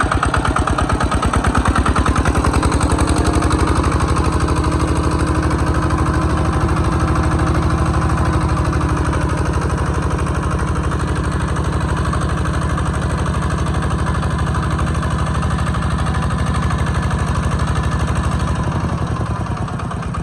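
Kubota RT120 walk-behind tractor's single-cylinder diesel engine running steadily with a rapid, even firing beat; its pitch rises a little in the first few seconds, then holds.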